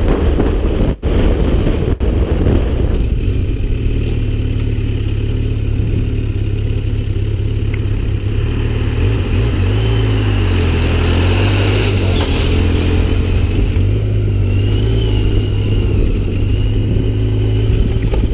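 An engine running steadily with a low hum, its pitch wavering slightly a couple of times in the second half, with a faint whine above it.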